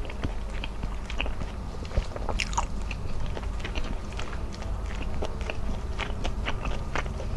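Close-miked chewing of a mouthful of rice and squid adobo: a steady run of wet mouth clicks and smacks, with one sharp click about two seconds in, over a low steady hum.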